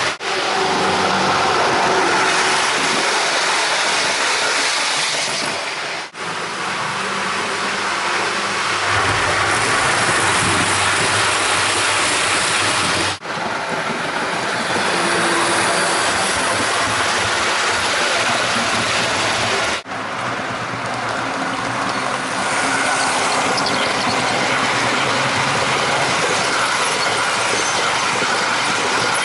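HO scale model trains running fast on the track: a steady, loud whirr and rattle of wheels on rail, with brief clickety-clack over the track joints. The sound cuts out for an instant three times.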